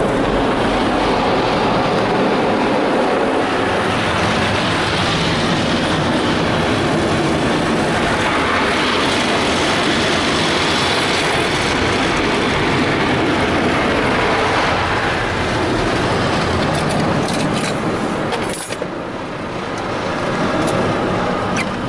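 Automatic car wash brushes scrubbing over the car with water spraying, heard from inside the car as a steady loud rushing. It eases off somewhat near the end, with a few faint ticks.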